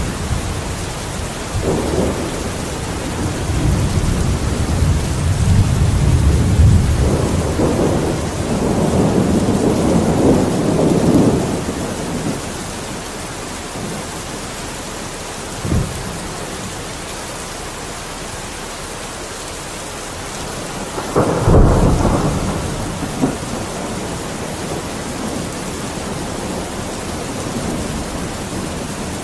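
Steady rain with rolling thunder. A long low rumble builds and fades over the first twelve seconds, a short crack comes near the middle, and a louder clap comes about two-thirds of the way through.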